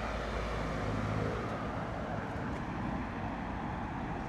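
Passing road traffic: a steady rush of car noise with a low rumble.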